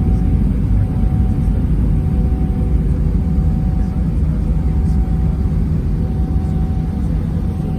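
Airbus A319 airliner heard from inside the cabin: a loud, steady rumble of jet engines and rushing air, with a few faint steady whining tones over it.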